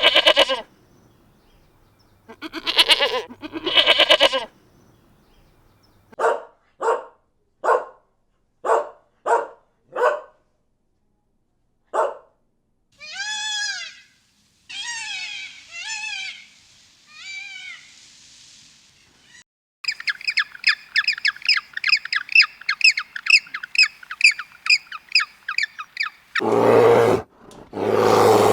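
A string of farm animal calls, one animal after another: two longer calls near the start, a run of short evenly spaced calls, then calls that rise and fall in pitch, a long stretch of fast high chirping, and loud low calls at the end.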